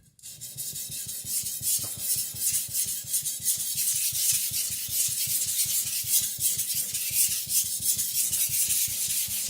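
Victorinox Chinese cleaver's steel blade being worked back and forth on a whetstone in quick, steady strokes, a continuous gritty scraping that starts suddenly. The blade face is being ground to thin it and blend the scratch pattern.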